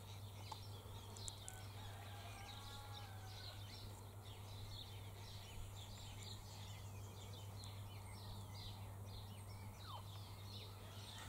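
Faint chorus of wild birds chirping, many short calls overlapping, over a steady low hum.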